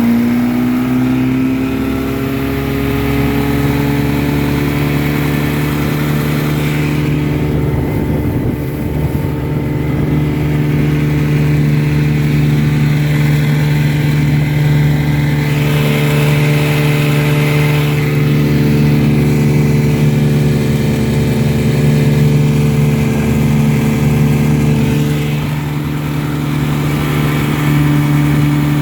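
1954 Johnson QD-15 10 hp two-cylinder two-stroke outboard motor at full throttle, its pitch finishing a climb about a second in, then running steadily at high speed as it drives the boat.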